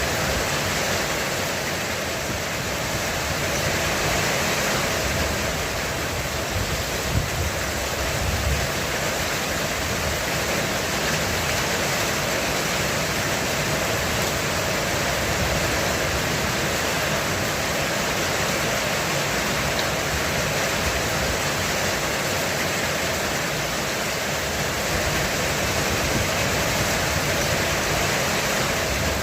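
Heavy rain falling steadily on a roof: a dense, even hiss of drops.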